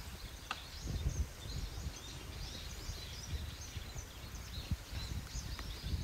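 Small birds twittering with many short, irregular chirps, over a gusty rumble of wind on the microphone.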